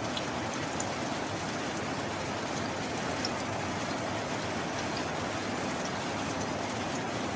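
Steady rain falling, an even hiss with a few faint high ticks of single drops.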